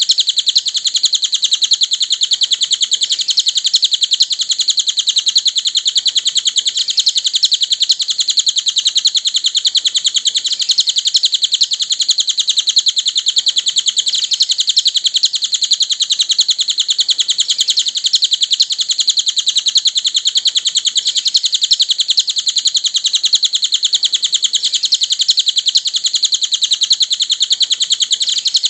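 Cililin bird song: a continuous, rapid, high-pitched chirping trill that keeps going without a break.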